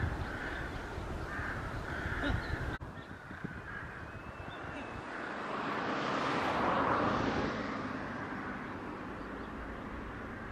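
A crow cawing repeatedly for the first few seconds, until it cuts off abruptly. After that a broad rushing noise swells and fades near the middle.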